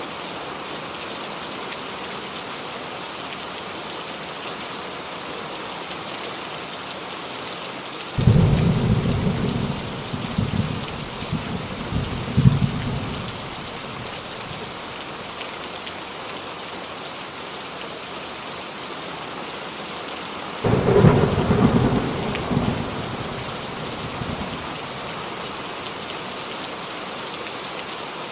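Steady rain falling on a roof, with two rolls of thunder: the first breaks out suddenly about eight seconds in and rumbles for several seconds with a few cracks, and the second comes about twenty-one seconds in and rumbles for a few seconds.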